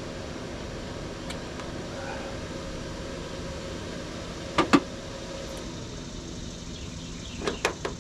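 A steady background hum, broken by two sharp knocks about four and a half seconds in and a quick run of three or four more near the end.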